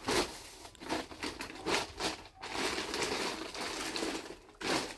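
Crinkling and rustling handling noise in several short bursts, the strongest near the start and near the end.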